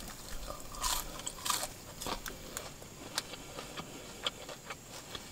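Close-miked eating: a person biting and chewing fast food, with irregular crunchy clicks and smacks.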